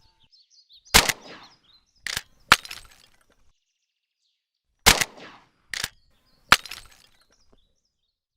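Six gunshots in two quick groups of three, each a sharp crack with a short ringing tail. Faint high chirps, like birds, sound between the shots.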